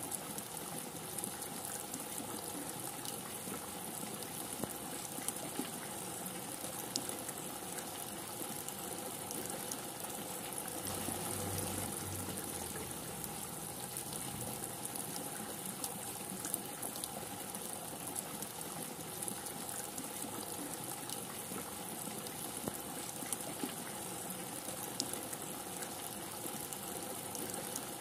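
Rain falling steadily: an even hiss dotted with sharp ticks of single drops, and a brief low rumble about eleven seconds in.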